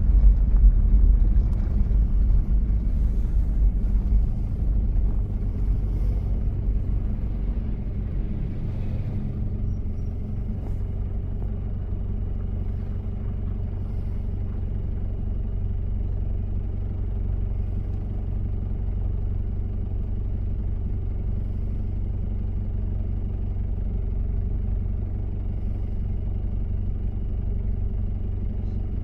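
Diesel engine of a 1993 Toyota Prado running while driving, a low rumble that eases down in loudness over the first several seconds and then holds steady.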